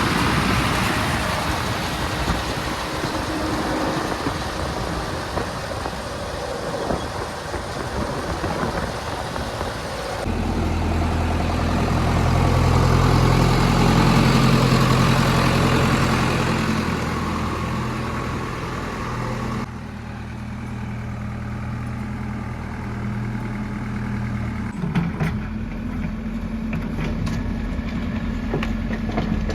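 Heavy machinery's diesel engine running: first a noisy stretch, then a steady idling hum with a clear low pitch, with a few sharp knocks about 25 seconds in.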